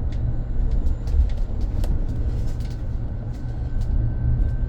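Cabin noise of a BYD BD11 battery-electric double-decker bus on the move: a steady low rumble with frequent small clicks and rattles. A faint steady high whine sounds through the middle.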